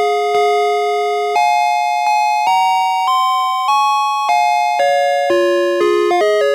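Electronic melody from a Snap Circuits sound-effect integrated circuit, recorded straight from the chip's output: a buzzy single-voice tune that holds one note for over a second, then steps up and down in half-second notes and plays quicker notes near the end.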